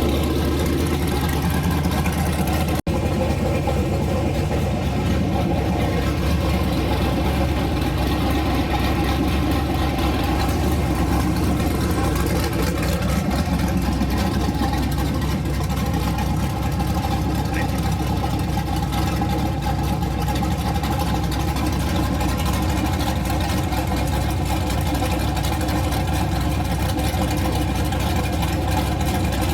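GM 5.3 V8 with a Truck Norris high-lift cam, breathing through a carburetor and open headers, idling steadily on an engine run stand. The sound drops out for an instant about three seconds in.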